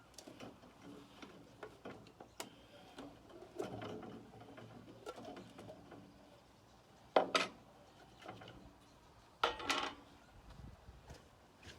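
Small metallic clicks and handling noises as a tool works at the lid of a metal can of varnish stain, with two louder short scraping pops about seven and nine and a half seconds in.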